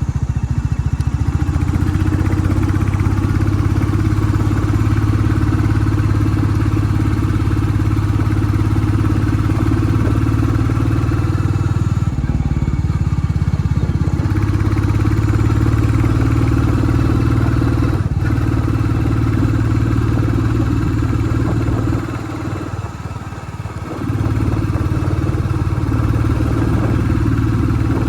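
Royal Enfield Classic 350 Reborn's single-cylinder engine running at a steady pitch, its exhaust note dipping briefly twice and falling off for about two seconds near the end before picking up again.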